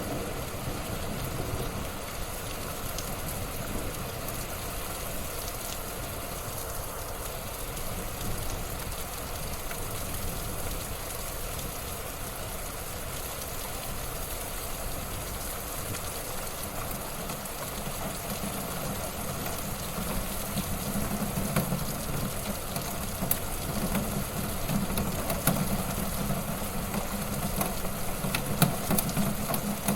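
Wood fire burning in a fireplace: a steady low rumble of flames with scattered crackles and pops, which grow more frequent and louder in the last third.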